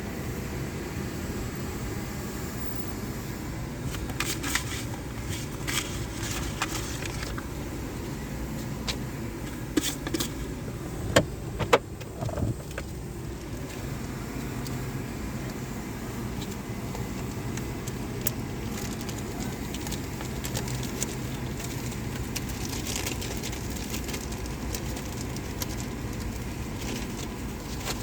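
Car engine idling steadily, with a few scattered clicks and knocks, the loudest about ten to twelve seconds in.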